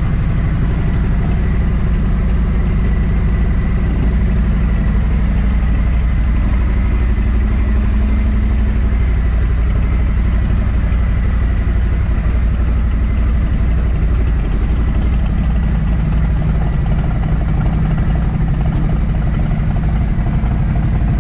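Harley-Davidson V-twin motorcycle engine running steadily, with an even, unchanging pitch and no revving.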